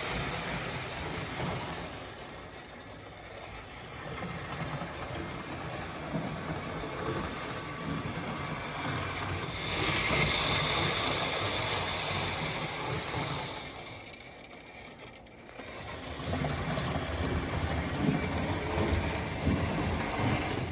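HO-scale model locomotive running along its track, the running sound fading and swelling twice as it moves around the layout.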